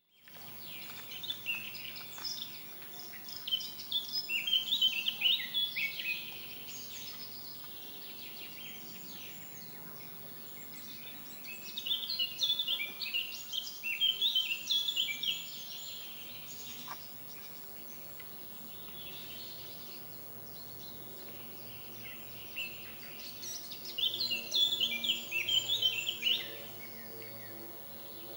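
A songbird singing in three spells of rapid chirping notes, each a few seconds long and about ten seconds apart, over a faint steady outdoor background.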